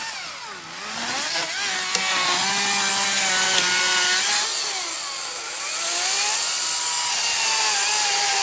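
Chainsaw cutting wood, its engine pitch dipping and climbing back several times under load. The chain is dulled from hitting rocks and smoking as it cuts.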